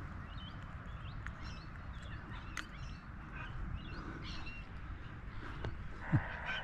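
Scattered short bird calls over a low wind rumble, with a few light clicks.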